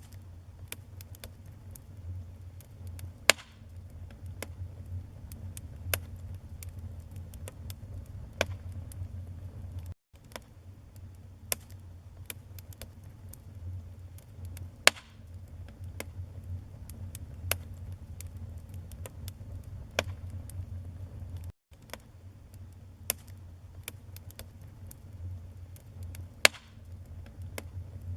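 Wood fire crackling: a steady low rumble of burning logs under a scatter of sharp pops and snaps, three of them much louder than the rest. It cuts out for an instant twice.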